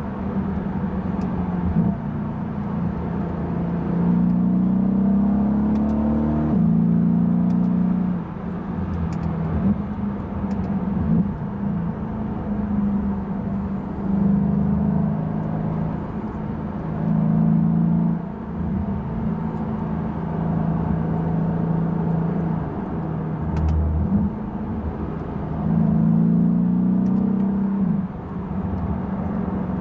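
Mercedes-AMG E63 (W212) twin-turbo V8 heard from inside the cabin, pulling under hard acceleration with the pitch climbing and then dropping sharply at an upshift, about six seconds in and again near the end. In between it runs at steadier revs, getting louder and quieter as the throttle opens and closes.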